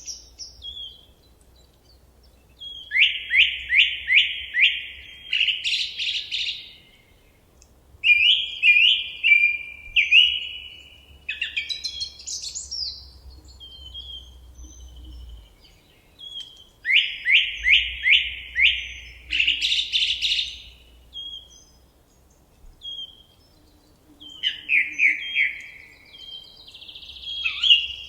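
Forest songbird singing the same short phrase four times, several seconds apart. Each phrase is a quick run of five or six falling notes that ends in a higher flourish, with softer chirps from other birds in between.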